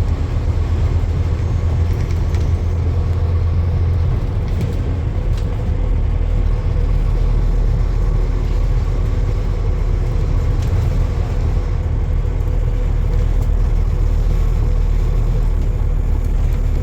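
Steady low rumble of a road vehicle running, with a faint steady hum above it.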